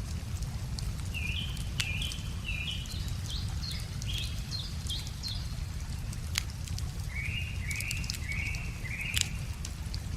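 Wood fire crackling with scattered sharp pops over the low steady rumble of a river, while a songbird sings two runs of quick repeated notes: the first climbs in pitch step by step, the second, near the end, is lower and even.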